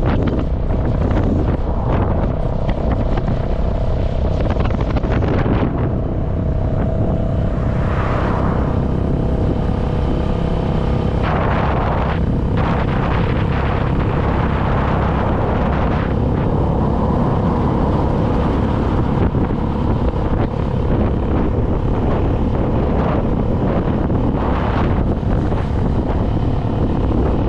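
Vehicle travelling along a road, with a steady rumble of engine and road noise and wind buffeting the microphone. A few louder rushes of noise swell and fade along the way.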